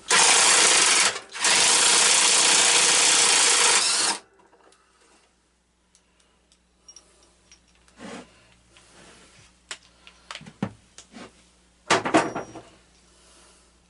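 Handheld power driver with a 9/16 socket running in two loud bursts, about a second and then about three seconds, on a bolt of a lawn tractor's starter solenoid, stopping abruptly. Then a few scattered clicks and knocks of tools being handled.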